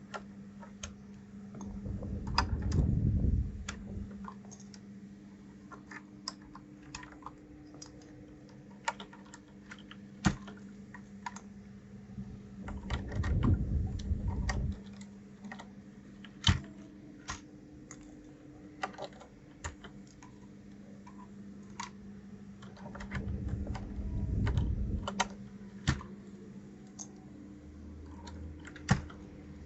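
Irregular, sparse clicks and taps of plastic keycaps on a 1st Player DK 5.0 mechanical keyboard, with three longer low muffled rumbles spaced about ten seconds apart over a steady low hum.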